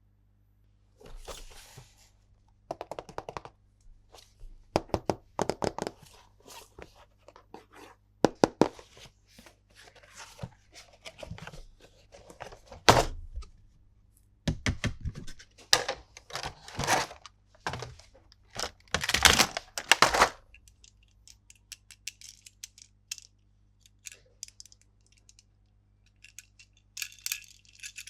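Plastic toy pieces and packaging being handled during an unboxing: clusters of sharp clicks, knocks and thunks, then a quieter stretch and a brief high crinkling rustle near the end.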